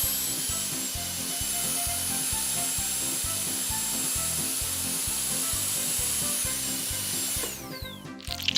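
Toy dentist drill's small motor running at a steady high whine, then slowing and stopping about seven and a half seconds in.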